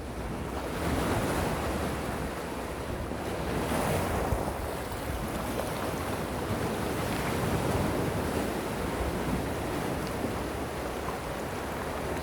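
Gentle sea waves washing onto the shore, the surf swelling and easing every few seconds, with some wind noise on the microphone.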